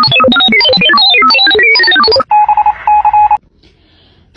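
Loud electronic tones, like a phone ringtone or sound effect: a fast run of beeping notes jumping up and down in pitch, then a rapidly pulsing steady beep over a buzz that cuts off suddenly.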